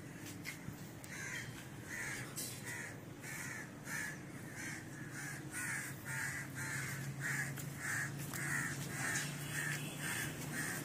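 A bird calling over and over, short calls at about two a second, with a low steady hum underneath.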